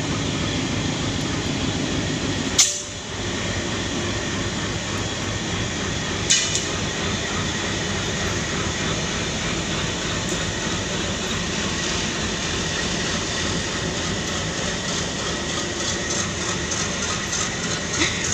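Diesel locomotive running as it hauls a train slowly past, then its coaches rolling by with the steady noise of wheels on the rails. A single sharp knock comes about two and a half seconds in.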